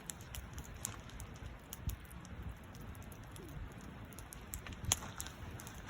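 Wood campfire crackling: irregular small pops and snaps over a faint low rumble, with a louder snap about five seconds in.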